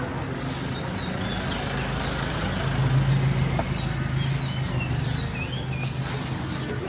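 A heavy road vehicle's engine running close by in street traffic: a steady hum that grows louder around the middle and then eases off.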